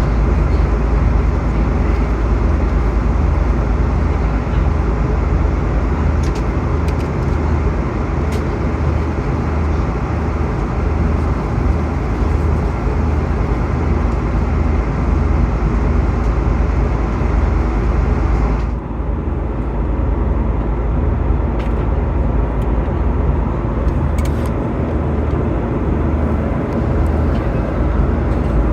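Steady cabin noise of an Airbus A330-200 airliner: a loud low rumble of the engines and rushing air. About two-thirds of the way through, the upper hiss drops abruptly.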